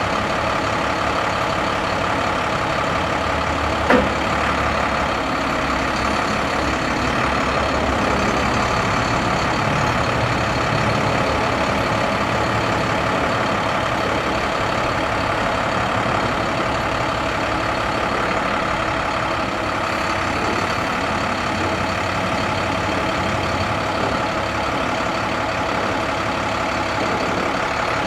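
The 2008 International 7300's MaxxForce DT diesel engine running at a steady speed, with one short click about four seconds in.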